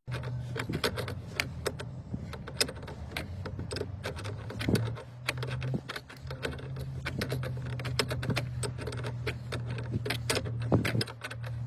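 Small metal parts and hand tools clinking and clicking irregularly, with a steady low hum underneath.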